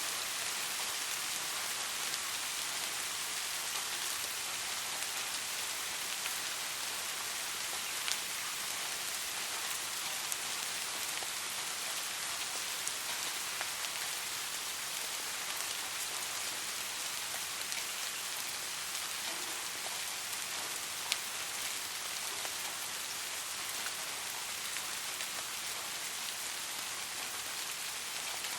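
Steady rain falling on a surface, an even hiss with a few distinct drops now and then.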